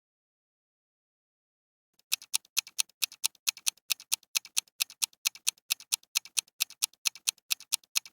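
Ticking clock sound effect: a fast, even tick-tock of sharp clicks that starts about two seconds in, typical of a quiz countdown timer.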